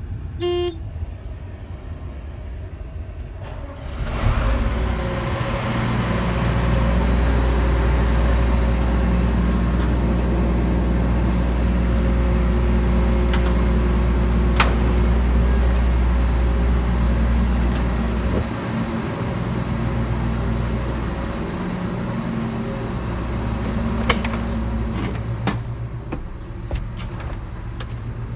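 Diesel engine of a farm machine, a combine or tractor, running cold to warm up. A short warning beep sounds right at the start. The engine gets louder about four seconds in and eases off a little around eighteen seconds.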